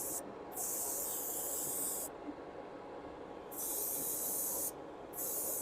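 Apache Raptor airbrush spraying in short bursts of hiss, each about a second long, as the trigger is pressed and released: a brief burst at the start, then three more passes with short gaps between them.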